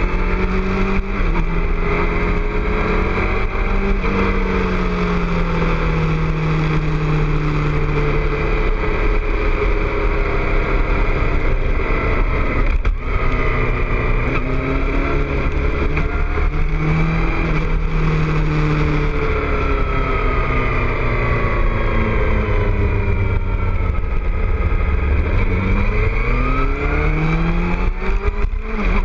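2006 Suzuki GSX-R600's inline-four engine through a Two Brothers aftermarket exhaust under way, its pitch repeatedly rising and falling as the throttle is rolled on and off through the bends, with a steep climb in revs near the end.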